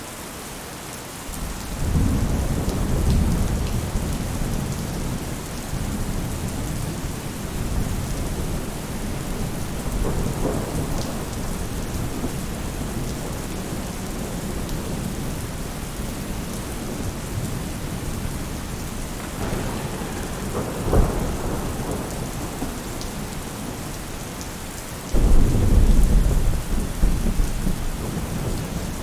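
Steady rain falling on a roof, with thunder rumbling low in several rolls. A louder peal of thunder breaks in suddenly about 25 seconds in.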